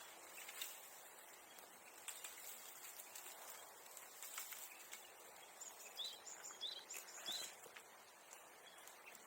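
Faint outdoor ambience with a bird giving three short chirps about six to seven and a half seconds in, and a few light scattered clicks.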